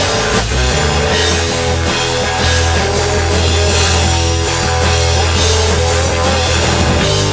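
Live rock band playing, with distorted electric guitars, bass and drum kit.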